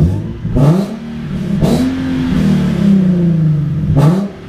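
Nissan Z's V6 engine, breathing through a full ISR exhaust with a new Y-pipe, blipped three times in quick succession, each rev rising sharply and falling back toward idle.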